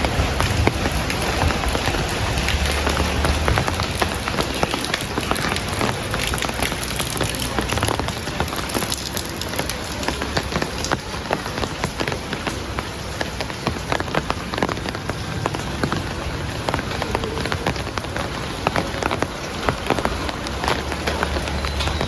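Heavy rain falling steadily on a surface, a dense hiss with many distinct drops hitting close by. A low rumble comes and goes underneath.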